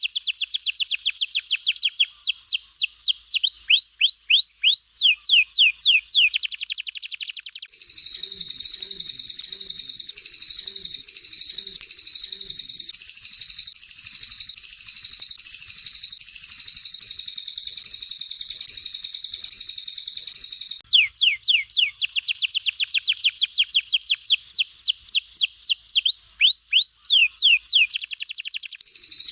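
Recorded song of a canary and a cililin bird, edited into shot-like phrases for training songbirds. The first phrase is a very fast string of falling whistled notes. About 8 s in it gives way to a long, dense, high rolling trill, and about 21 s in the fast falling notes return.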